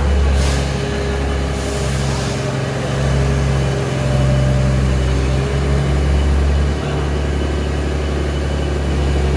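A heavy engine running steadily with a low hum. Two short hisses come about half a second and about two seconds in.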